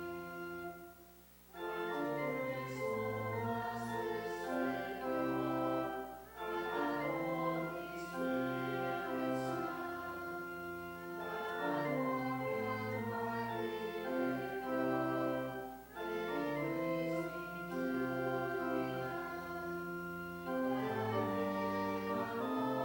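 Church organ playing a hymn tune in held chords, phrase by phrase, with brief breaks between phrases.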